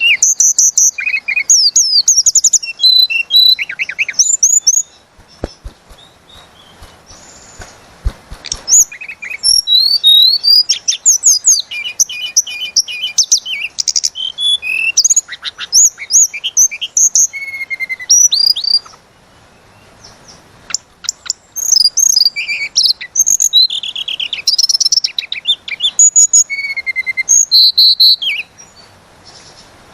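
A tledekan gunung songbird singing long, rapid runs of high, sweeping whistled notes and trills, with two short pauses, one about five seconds in and another near the twenty-second mark.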